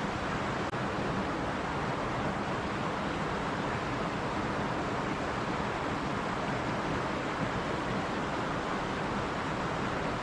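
Stream water running over rocks, making a steady, even rushing sound.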